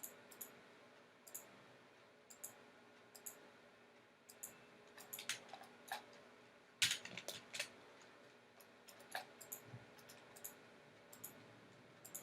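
Faint, irregular clicks of a computer mouse and keyboard, about one a second, with a busier, louder run of clicks around the middle.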